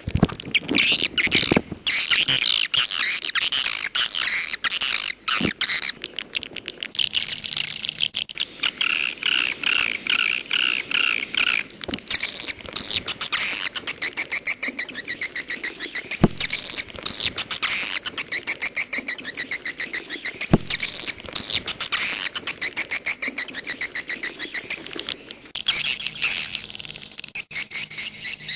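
Swiftlets calling: dense, overlapping high chirps and rapid clicking trills that run on without a break.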